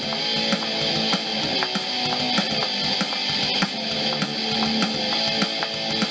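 Playback of a rock track in progress: guitar with a programmed rock drum-kit beat, without hi-hats yet.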